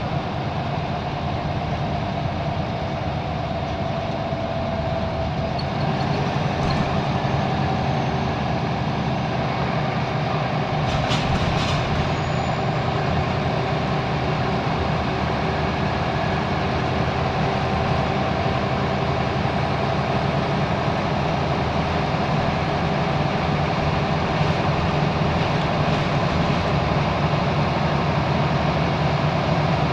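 Scania L94UB Wright Solar single-deck bus, its diesel engine running steadily with a faint whine on top. There is a brief rattle of clicks about eleven seconds in.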